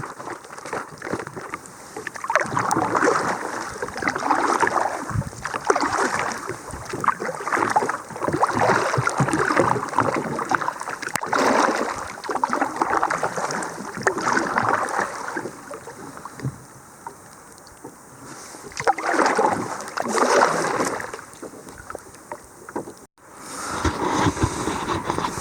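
Kayak paddle strokes dipping and splashing in lake water, a watery swish every second or two, with wind around.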